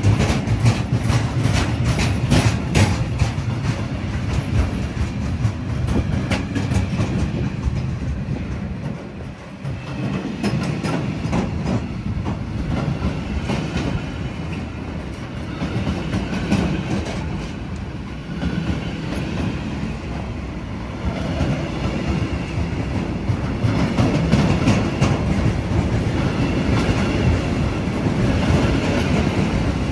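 A train passing on the tracks: a steady rumble with wheels clacking over the rail joints, the clacks thickest in the first several seconds and the sound dipping briefly about a third of the way in.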